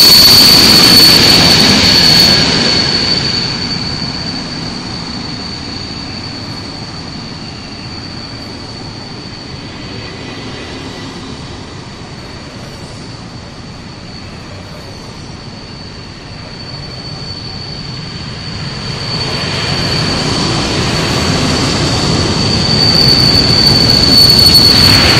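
A train rolling slowly into the station past the platform as it arrives, with a new Stadler Flirt 3 electric multiple unit in its consist. A steady high-pitched tone runs over the rumble of the wheels throughout. The sound is loud at first, fades in the middle as quieter cars pass, and swells again near the end.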